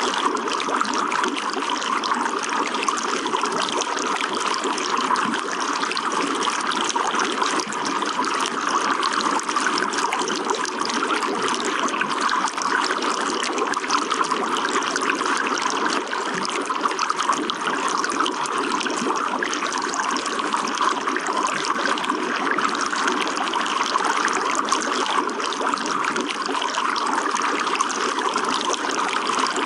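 Running water trickling and splashing steadily, with no break or change.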